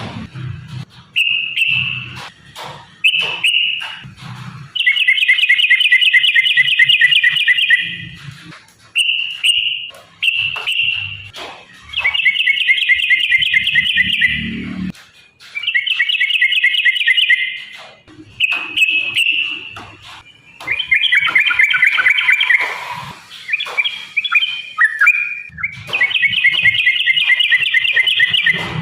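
Yellow-vented bulbul (trucukan) singing in long, fast phrases of rapid chattering notes, phrase after phrase with short pauses between.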